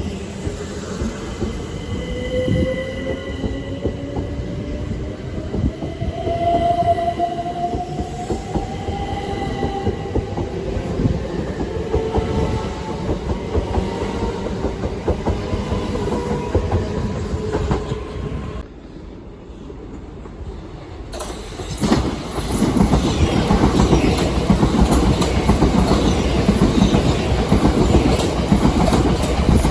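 Electric train running through a station: a motor whine rises steadily in pitch as it gathers speed. About two-thirds of the way in the sound briefly drops away, then a train runs close by with loud wheel and rail clatter.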